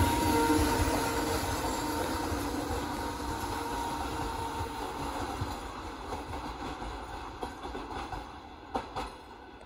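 A vehicle passing by, its steady noise fading away, with a couple of sharp clicks near the end.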